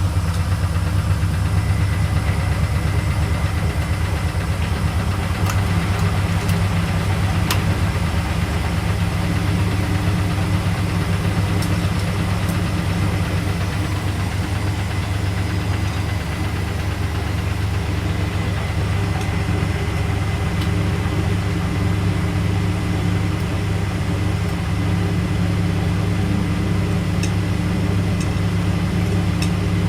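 Washing machine running with a steady low motor hum and the rumble of its drum, with a few faint ticks here and there.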